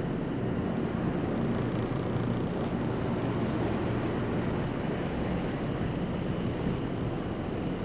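Carver motor yacht's engines running steadily underway, a low drone under a steady rushing noise.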